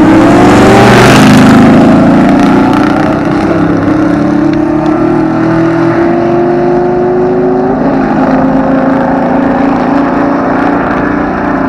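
Truck engine under hard acceleration, its pitch rising steadily, with a gear shift about eight seconds in and another climb after it. A loud rushing noise sits over the engine for the first couple of seconds.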